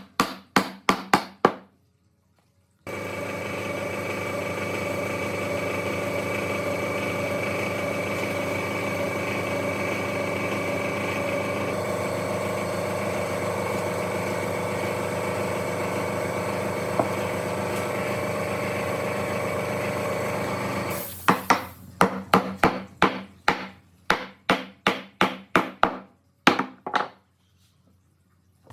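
Rapid hammer strikes on wood, about four a second, then a power tool running steadily for about eighteen seconds, starting and stopping abruptly. The rapid hammering on wood resumes for several seconds after it.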